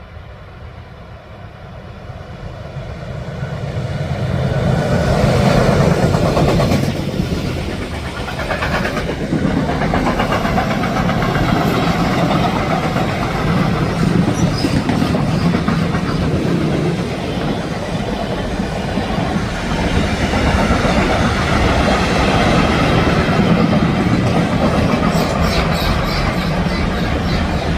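A train approaches, growing loud over the first five seconds or so, then rolls past close by for the rest of the time as a long, steady rush of wheels and wagons on the rails.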